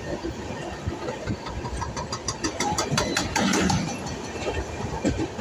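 Passenger train running on the track, heard from on board: a steady rumble, with a quick run of sharp wheel clicks and a louder rush of noise around the middle.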